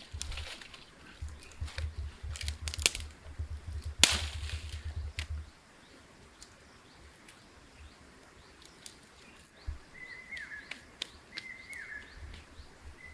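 Outdoor ambience: a run of scattered clicks and knocks over a low rumble for about five seconds, the sharpest knock about four seconds in. It goes quieter, then near the end a bird calls in short chirps that fall in pitch.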